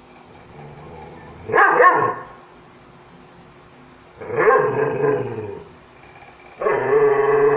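A dog barking and vocalizing in three calls: a short bark about one and a half seconds in, a longer call around four seconds, and a drawn-out, wavering call near the end.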